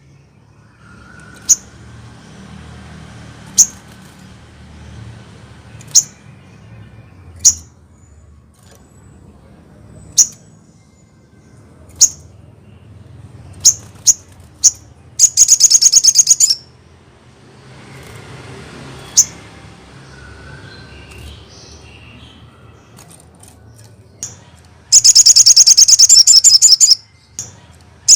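Crimson sunbird (sogon) calling: sharp, high single chips every second or two, broken twice (about halfway and again near the end) by a loud, fast, rapid-fire trill of high notes.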